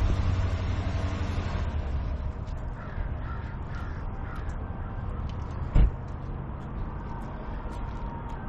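Outdoor ambience: a bird calls a few short times, faintly, over a low vehicle rumble that fades in the first couple of seconds. A single loud knock comes about six seconds in.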